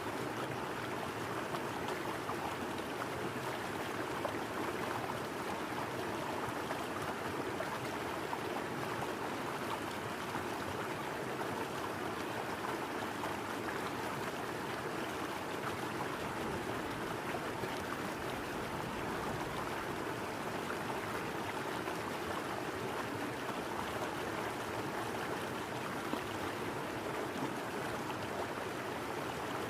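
River water running over stones, a steady even rush with no breaks.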